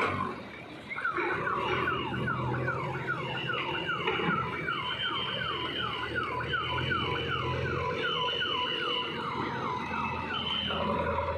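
A siren-like alarm tone that falls in pitch over and over, about three times a second, over a steady low engine hum. It starts about a second in and stops shortly before the end.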